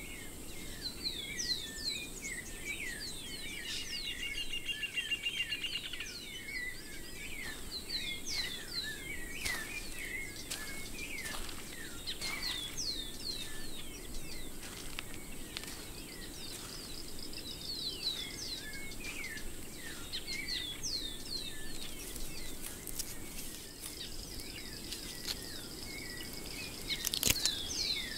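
Many small birds chirping, with quick, repeated downward-sweeping calls and a few trills, over a low steady background noise. A short sharp crack stands out near the end.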